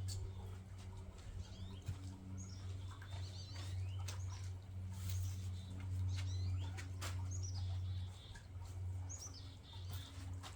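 Small birds chirping on and off in the background, with scattered snaps and crackles of conifer branches being pushed into a pot, over a steady low hum.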